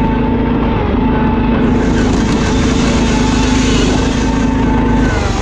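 Riding lawn mower's small single-cylinder engine running loud and steady under throttle, its pitch dipping briefly about a second in and again near the end.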